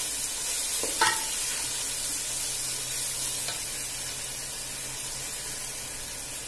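Onions and ginger-garlic paste sizzling in oil in a non-stick pan, stirred with a wooden spatula that is then left in the pan. A sharp knock about a second in.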